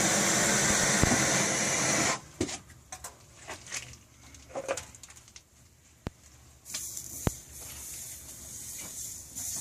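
A loud, steady hiss from a pressurised jet that cuts off abruptly about two seconds in. It is followed by a few sharp clicks and knocks, and a fainter hiss starts near the end.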